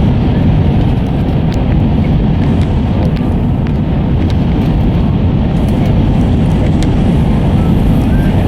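Steady, loud low rumble inside the cabin of an Airbus A320: engine and airframe noise, with a few faint light rattles scattered through it.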